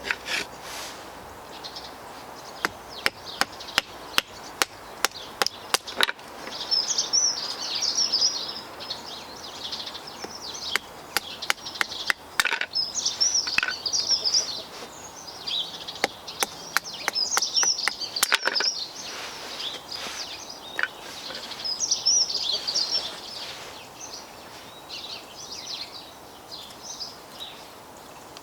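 Wild birds singing in repeated chirping phrases. A quick run of sharp taps comes a few seconds in, with more scattered taps later. These taps are the loudest sounds.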